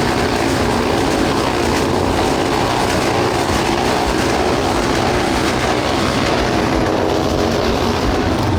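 Many motorcycle engines running together in a loud, steady rumble.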